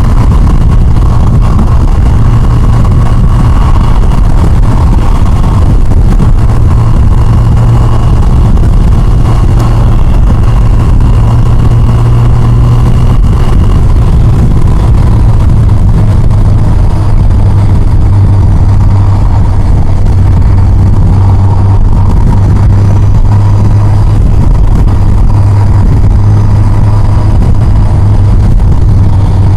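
Yamaha FJR1300's inline-four engine running steadily at road speed, under heavy wind rumble on the rider's microphone. The engine note drops slightly about halfway through.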